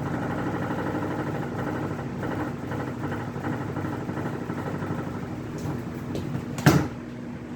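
Aerospeed Coolmaster box fan running on medium speed, a steady motor hum with rattling from the fan shaking badly, which is typical of these Aerospeeds. A single sharp knock near the end.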